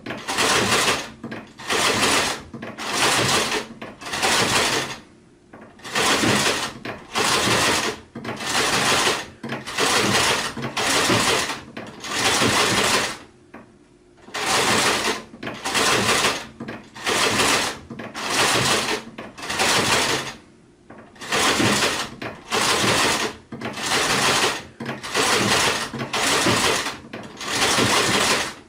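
Sewing machine stitching in short runs of under a second each, started and stopped about once a second, with a few slightly longer pauses between runs.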